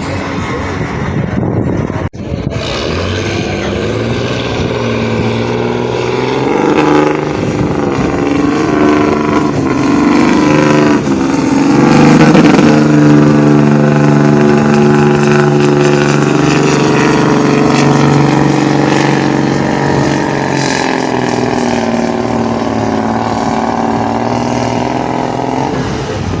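Farm tractor engine working hard under full load as it pulls the weight-transfer sled. Its pitch climbs over the first dozen seconds, holds high, then eases off near the end.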